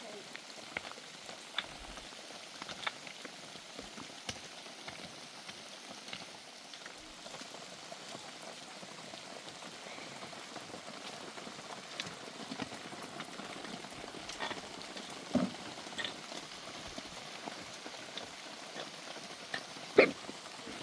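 Steady rain falling, a continuous patter of drops with scattered sharp ticks. A couple of louder knocks come near the end.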